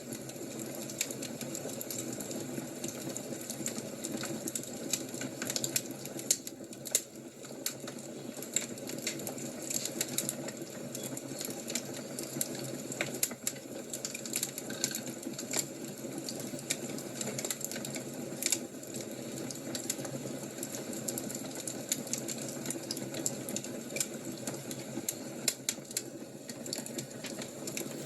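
Wood fire crackling: a steady low hiss with frequent irregular sharp pops and snaps.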